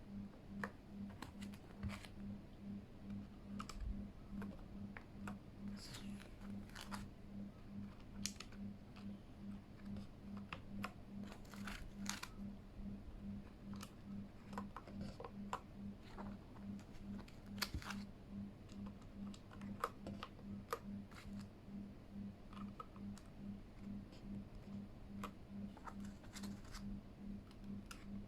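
Irregular small plastic clicks and taps of keycaps being pulled off and pressed onto a Keychron K8 mechanical keyboard. Underneath, a low hum pulses steadily about twice a second.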